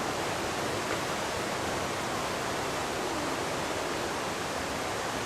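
Steady, unbroken rush of fast-flowing water, an even hiss with no change in level.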